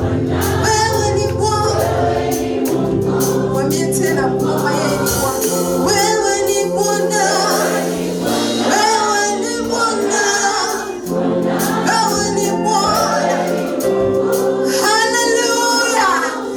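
Gospel choir singing praise music with a steady bass line and drum beat.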